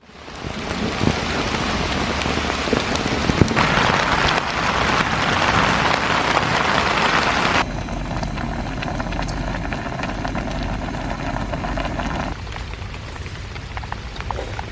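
Heavy rain falling, a dense steady hiss with scattered drop hits. The sound fades in at the start and changes abruptly three times, getting brighter and louder, then duller and quieter.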